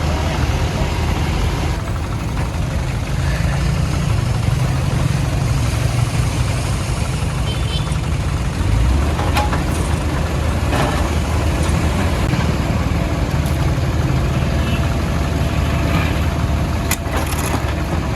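Diesel engine of a CAT backhoe loader running steadily at low revs. A few short knocks or clanks come about halfway through and again near the end.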